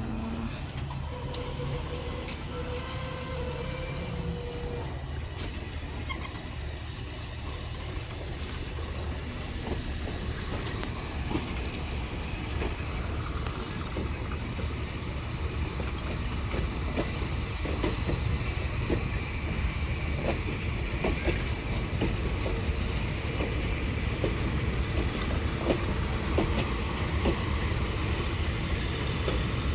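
Passenger train rolling along the track with a steady low rumble and wheels clicking over rail joints. The clicks grow more frequent and louder through the second half as the train picks up speed.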